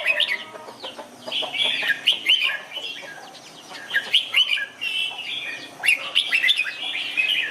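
Red-whiskered bulbul singing: phrases of quick, bubbling whistled notes with short pauses between them.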